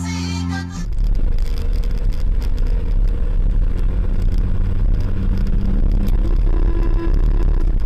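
Car on the move: steady engine and road noise, heavy in the low end. Music cuts off about a second in.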